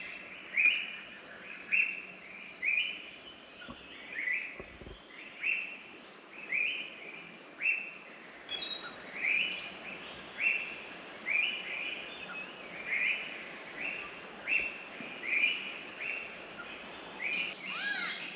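A bird calling over and over, one short note bending up and down about once a second, with fainter calls of other birds in the forest around it.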